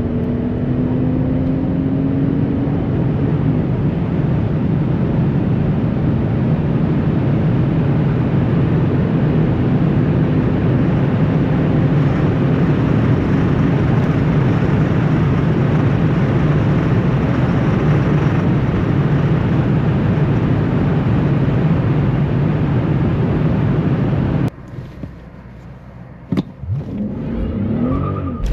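The 6.0-litre biturbo V12 of a Mercedes S65 AMG runs steadily under way as a loud, even drone, its pitch rising slightly in the first few seconds. About four seconds before the end the sound drops suddenly to a much quieter stretch with a few sharp knocks and a short rising tone.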